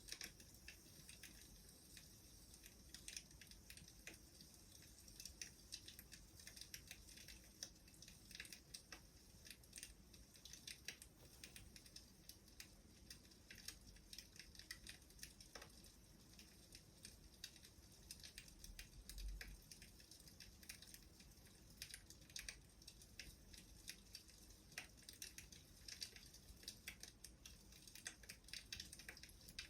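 Wood fire crackling faintly, with irregular small pops and snaps.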